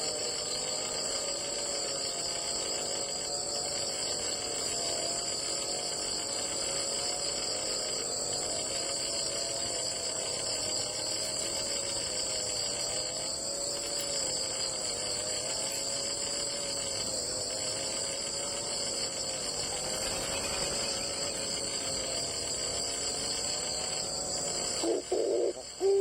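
Insects chirring steadily, a continuous high-pitched drone. About a second before the end, a dove starts cooing in short low pulses.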